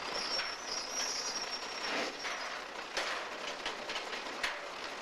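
Railroad coal cars rolling on track, with a high, thin wheel squeal during the first second and a half, then a few sharp clacks.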